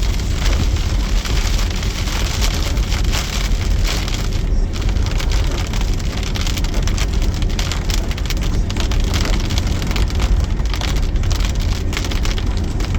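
Heavy rain pouring down steadily, a dense patter of drops over a constant low rumble.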